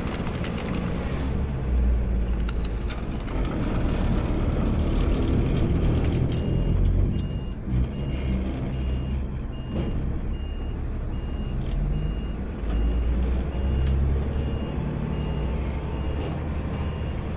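Automated side-load garbage truck's engine running with a heavy low rumble. About six seconds in, its reversing alarm starts, sounding a high steady beep that repeats evenly as the truck backs up.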